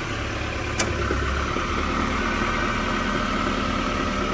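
1994 Nissan Hardbody pickup's four-cylinder engine idling steadily, with one sharp click just under a second in.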